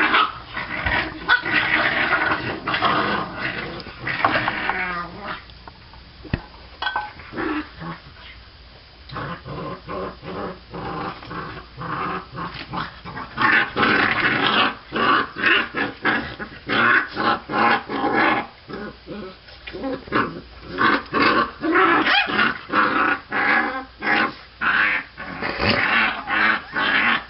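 Half-Labrador puppies growling at one another as they scuffle, with whines and yips mixed in. The noise comes in irregular bursts, eases for a few seconds, then returns as a long run of quick, pulsing growls.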